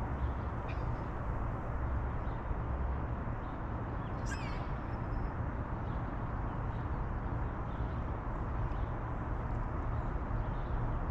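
A few gull calls over a steady low rumble, with the clearest call, falling in pitch, about four seconds in.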